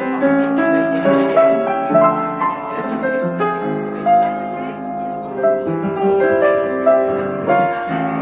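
Live jazz led by piano, with held chords and a melody moving in steady notes.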